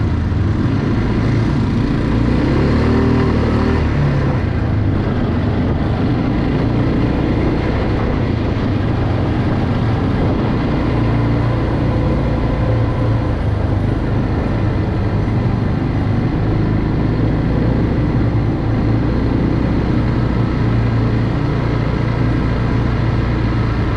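Quad bike engine running steadily under way, with the rush of riding over it.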